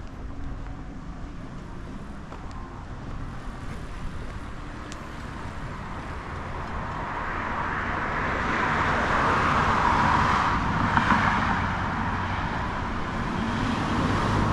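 Road vehicle going past, its tyre noise swelling over several seconds to a peak about ten seconds in and then easing, over a steady low rumble.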